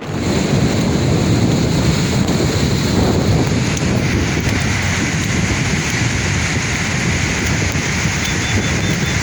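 Sea surf: a steady wash of breaking waves, with wind buffeting the microphone.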